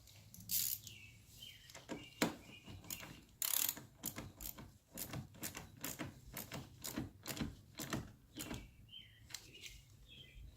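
A hand socket ratchet clicking through a run of strokes, about three a second in the middle, stopping near the end, as the car battery is being refitted. A bird chirps a few times.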